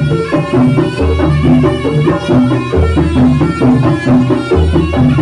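Jaranan music from a live Javanese-style ensemble: drums and tuned percussion play a repeating, rhythmic pattern, with a deep low note sounding about every two seconds.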